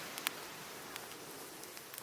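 Cedar and oak firewood crackling in a campfire, with a few sharp pops, the strongest about a quarter second in, over the steady wash of surf.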